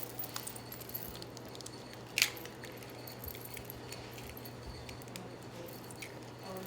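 Faint clinks of a mug and utensils being handled while ingredients go in, with one sharp click about two seconds in, over a steady low hum.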